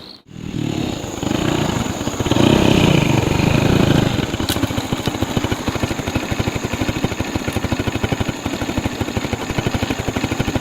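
Small engine running: it comes up louder for a couple of seconds, then settles into a steady, fast, even putter at idle.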